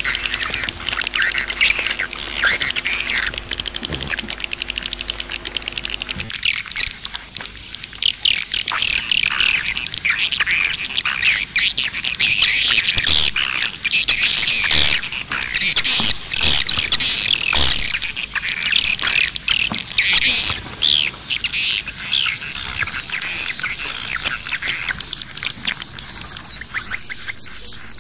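Swiftlets calling: a dense, rapid twittering of many high chirps, the kind of swiftlet call recording ('suara walet') played to draw swiftlets to a nesting house. A steady low hum lies under the calls for the first six seconds and then stops. The twittering is loudest in the middle.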